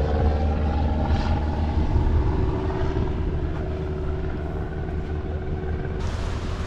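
Car engine running with a steady low drone, its pitch easing slightly in the first second or so.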